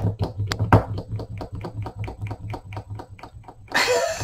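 Plastic pump dispenser on a bottle of body glow lotion being pumped over and over, a quick run of clicks about five or six a second, with a short rushing noise near the end. The pump has not primed yet and nothing comes out.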